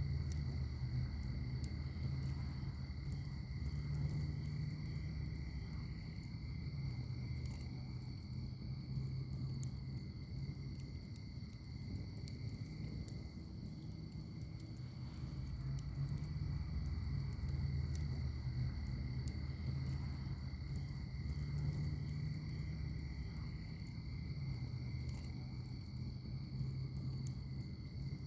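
Wood fire in a fire pit crackling, with scattered sharp pops over a low, uneven rumble. Crickets trill steadily and high-pitched throughout.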